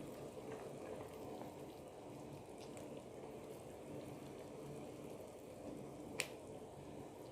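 Pot of sugar syrup with eggplants simmering, a faint steady bubbling. A single sharp tap about six seconds in.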